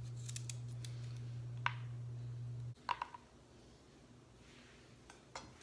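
Knife slicing sweet potato into thin rounds on a cutting board: a few scattered short clicks as the blade goes through and meets the board, and a sharp knock at the very end. A low steady hum runs under it and cuts off suddenly about halfway through.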